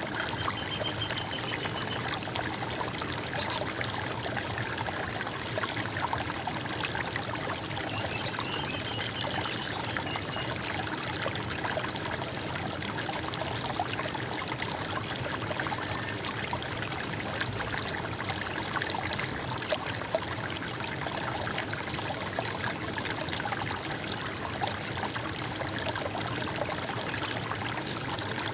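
Stream water running and gurgling steadily, with a short bird trill about a second in and another about eight seconds in.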